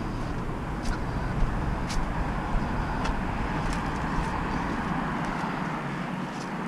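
Van driving, heard from inside the cabin: steady engine and road rumble with a few light clicks and rattles. The low rumble drops away about five seconds in.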